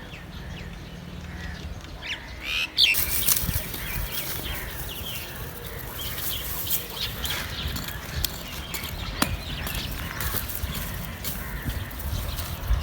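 Chickens clucking and chirping, with rustling and many sharp knocks and scrapes starting about three seconds in.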